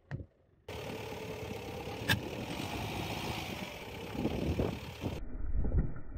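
Car engine idling with the car standing still: a steady running noise, with one sharp click about two seconds in.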